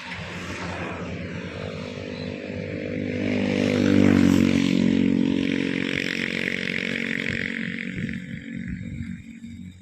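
A motor vehicle's engine passing close by, growing louder to a peak about four seconds in and then fading, its pitch dropping as it goes past.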